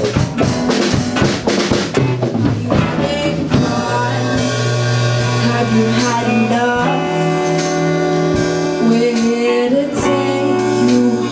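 Rock band playing an original song. A busy drum passage fills the first few seconds, then the band settles into held notes over a lighter beat.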